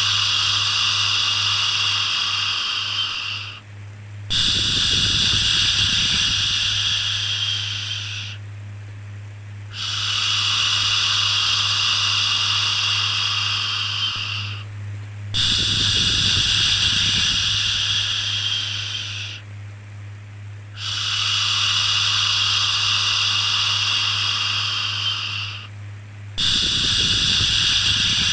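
Repeated long 'shhh' shushing to soothe a baby, each shush lasting about four seconds with a short pause between, over a steady low hum.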